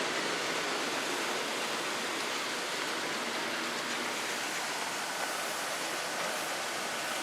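Steady rushing noise, even and unbroken, with no rhythm or distinct tone.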